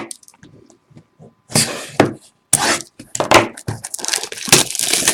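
Crinkling and tearing of trading-card pack wrappers and packaging being handled, in irregular rustling bursts that become nearly continuous from about a second and a half in.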